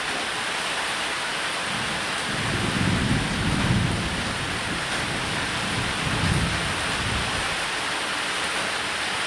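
Steady rain with low rolls of thunder, one rumble swelling from about two and a half seconds in and a second around six seconds.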